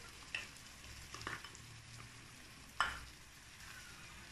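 Chicken pieces, beaten egg and mayonnaise frying in ghee in a frying pan with a faint, steady sizzle. Three short knocks against the pan break in, the loudest about three seconds in.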